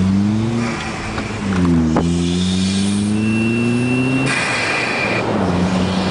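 Car with an aftermarket exhaust heard from inside the cabin under hard acceleration: the engine note rises, drops at a gear change about a second in, then climbs again for about three seconds. It then lifts off and settles into a steadier, lower drone near the end, with one sharp pop shortly after the shift.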